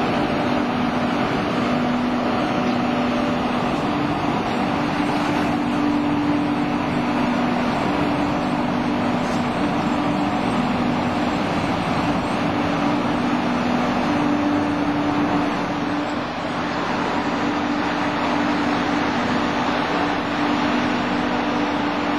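Steady running noise of a passenger train heard from inside the carriage, with a low two-note hum that fades in and out.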